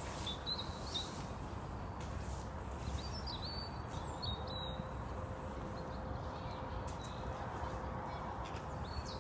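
Birds chirping in short, high whistled notes, about half a second in, again a few seconds in, and near the end, over a steady low outdoor background rumble.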